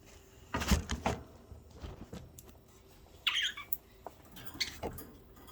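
A few sharp clicks and knocks under a second in, then a single short squawk from a budgerigar about three seconds in, followed by a few more light clicks.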